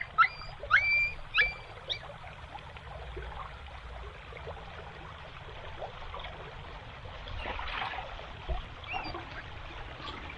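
Flowing floodwater trickling steadily. Four short squeaky animal calls, each rising quickly and then held, in the first two seconds, and some rustling about three-quarters of the way through.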